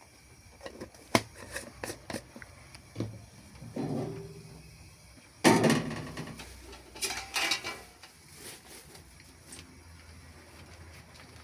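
A run of knocks and clatters from things being handled and set down, the loudest about five and a half seconds in, then a few more around seven seconds before it settles.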